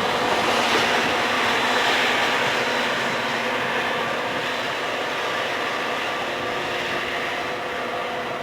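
A train running past, a steady rolling rumble with a few faint steady tones, slowly fading.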